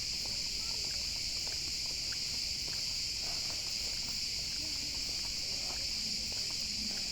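Steady chorus of insects in pine forest: a dense, unbroken high-pitched chirring hiss.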